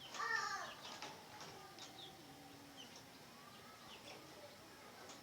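Birds calling: one louder call right at the start, then scattered short high chirps and a faint drawn-out call.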